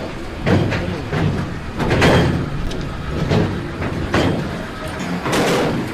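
Train running: a steady rumble with irregular knocks and clanks.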